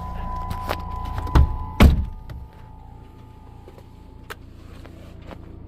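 Vehicle door being opened and shut: a few knocks and a loud thunk about two seconds in, then a quieter steady low hum.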